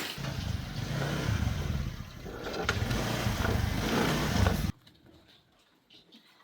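Motorcycle engine running roughly, then cutting off suddenly about four and a half seconds in.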